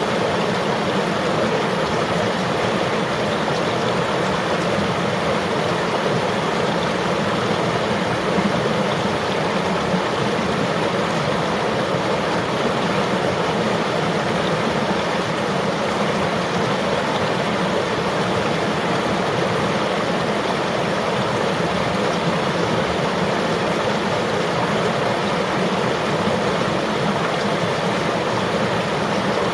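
Flowing river water rushing and burbling steadily.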